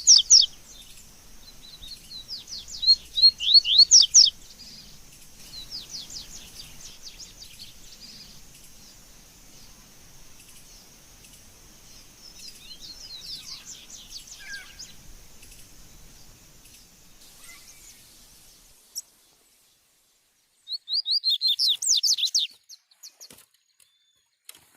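Double-collared seedeater (coleiro) song: repeated phrases of quick, high-pitched chirping notes. The loudest phrases come at the start, around three to four seconds in and again about twenty-one seconds in, with fainter phrases between.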